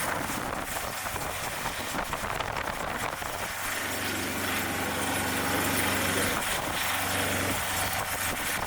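An engine running steadily at idle, a low hum under a broad rushing noise.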